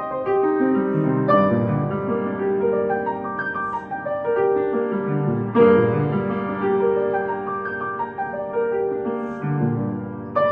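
Piano playing a slow piece: a melody of held notes over low notes struck in turn.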